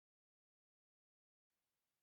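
Near silence: the soundtrack is digitally blank, with only a very faint hiss from about a second and a half in.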